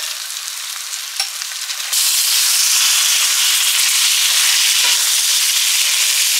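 Salmon fillets frying in butter in a nonstick skillet: a steady sizzle with a few light pops, turning louder about two seconds in.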